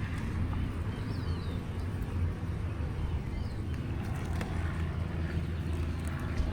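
Honeybees buzzing around an opened hive: a steady low drone, with a few faint bird chirps about a second in.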